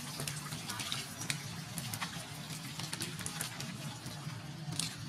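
Rain falling on shallow, muddy standing water: a steady hiss flecked with many small drop ticks.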